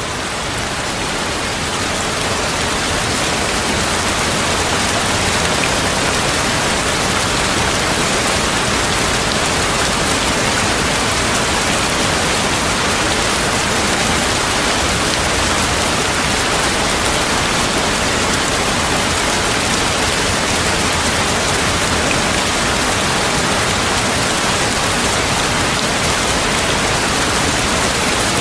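Heavy rain falling steadily as a dense, even hiss, fading in over the first few seconds.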